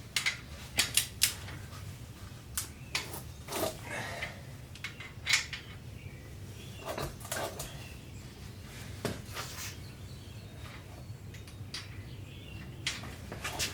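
Irregular metallic clinks and clicks of a torque wrench and socket being worked on the main-cap bolts of a 351 Windsor engine block, over a low steady hum.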